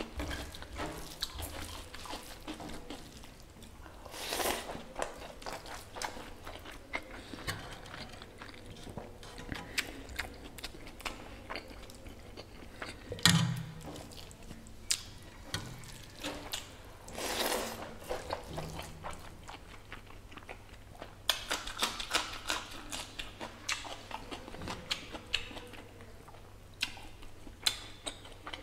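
Close-miked mouth sounds of mutton nalli curry being eaten by hand: chewing and biting meat off the bone, with many small wet clicks and smacks. Several louder bursts of noise stand out, the loudest about halfway through.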